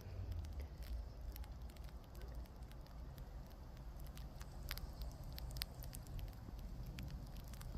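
Falling snow pellets pattering: scattered, irregular light ticks and crackles over a steady low rumble.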